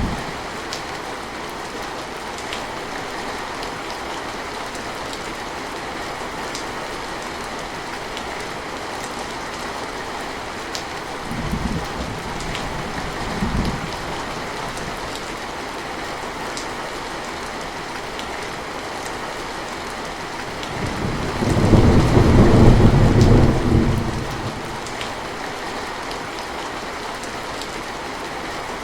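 Steady rain with scattered drops pattering, and distant thunder: two short low rumbles a little before halfway, then a louder, longer roll of thunder lasting a few seconds about three-quarters of the way through.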